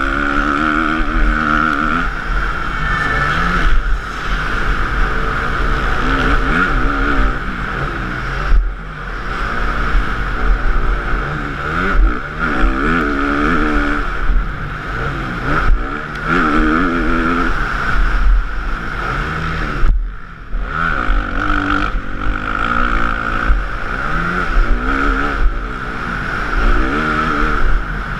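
Motocross bike engine heard close up from the bike itself, revving up and dropping back again and again as the throttle is opened and closed around the track, with two brief drops in level about eight and twenty seconds in.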